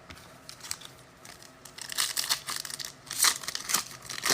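Foil wrapper of a trading-card pack being torn open and crinkled, in quick crackly bursts starting about two seconds in.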